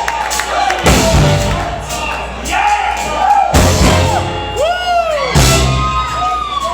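Live band playing loudly, with heavy low hits about one, three and a half and five and a half seconds in, and shouts and whoops gliding over the music.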